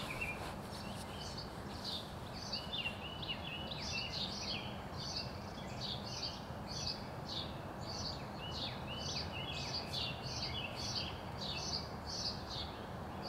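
Birds chirping outdoors, short chirps repeating about twice a second without a break, over a steady hiss of background noise.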